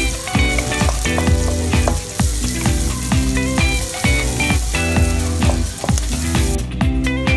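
Minced garlic and chopped onion sizzling in butter in a nonstick wok, stirred with a wooden spatula. Background music with a steady beat plays over it.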